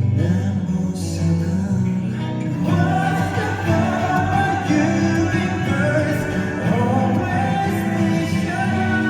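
Live rock band music with singing.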